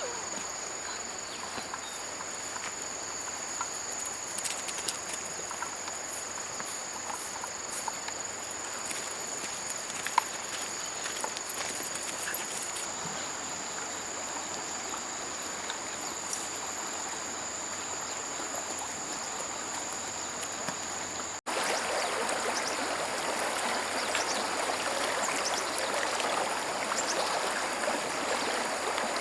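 A stream running, with a steady high insect drone over it. About two-thirds of the way through there is an abrupt cut, after which the water is louder and the insect tone fainter.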